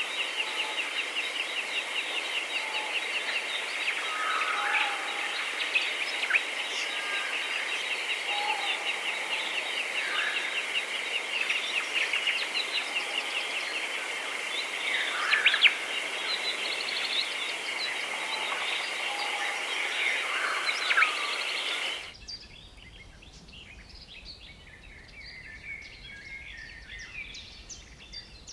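Birds calling: a steady, rapid trill with scattered chirps and whistles over it. About three-quarters of the way in it cuts abruptly to a quieter recording of other birds chirping.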